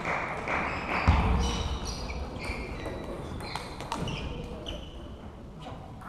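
Table tennis balls clicking off bats and tables in a large hall, irregular strikes with a heavier thump about a second in.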